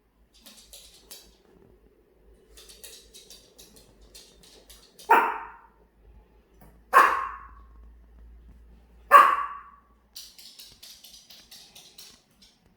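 A small Maltese dog barking three times, each bark short and loud, about two seconds apart. Runs of faint quick clicks and scuffles come before and after the barks.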